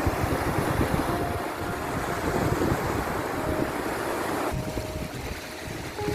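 Ocean waves washing and surging in a steady rush, with a few faint held melody notes floating above.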